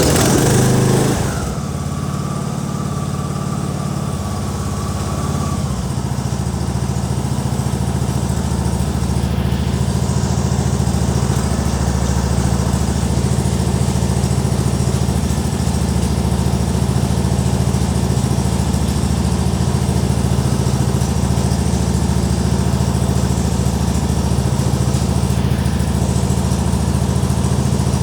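Tractor engine just after starting, loudest in the first second, then running steadily at idle.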